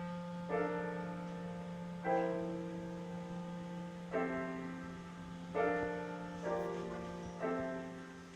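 Piano playing a slow introduction: chords struck about every one to two seconds, each left to ring and fade, over a low bass note held throughout with the sustain pedal.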